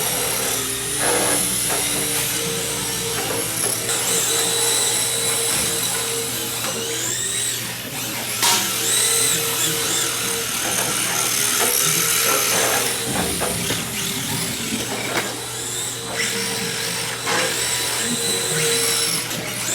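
Electric motors of radio-controlled drift cars whining, rising and falling in pitch as the throttle is worked, with background music.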